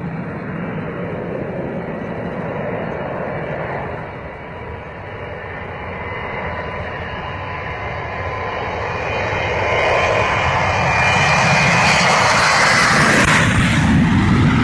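Aircraft engine noise, a steady rush that grows louder and brighter about two-thirds of the way through.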